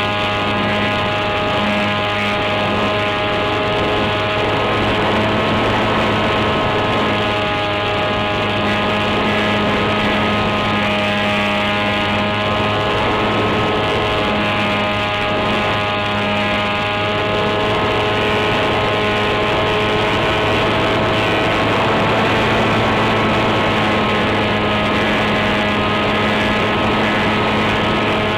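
Electric RC plane's brushless outrunner motor (NTM Prop Drive 28-26, 1200 kv) spinning an 8x6 propeller at a fairly steady throttle: a steady whine made of several tones, over a rush of air noise.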